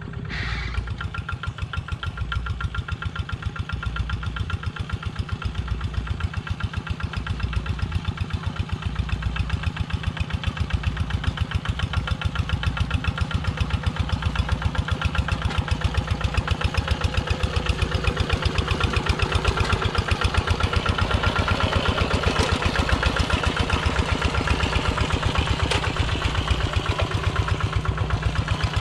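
Kubota single-cylinder diesel engine of a two-wheel walking tractor, running with a rapid, even beat. It grows louder over the first dozen seconds, then holds steady.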